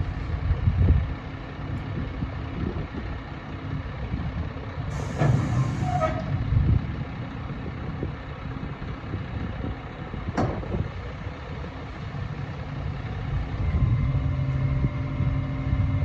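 Kenworth T880 dump truck's diesel engine running with a steady low rumble. A brief hiss comes about five seconds in and a sharp click about ten seconds in, and the engine grows louder near the end.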